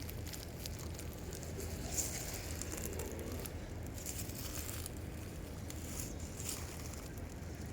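Dry leaf litter and twigs crackling and rustling in a scattered run of small clicks, as it is stepped on or moved through, over a low steady hum.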